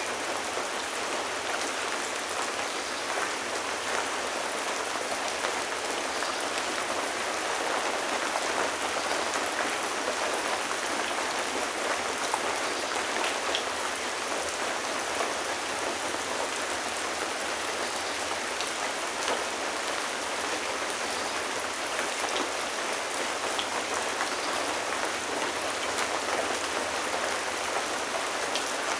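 Steady rain falling, a dense even hiss of drops with many small individual drop taps.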